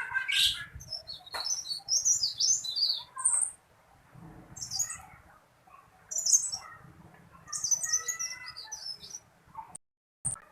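A teralis, a small Indonesian songbird, singing loud, high-pitched chirping phrases about a second long each, with short pauses between them.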